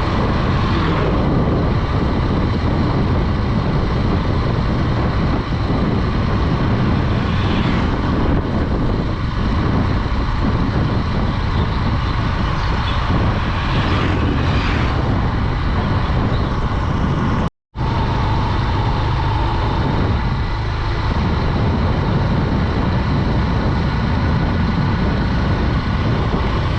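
Honda Dream 110 motorcycle on the move: its small single-cylinder four-stroke engine runs steadily under heavy wind rush on the rider's microphone. The sound cuts out completely for a split second about two-thirds of the way through.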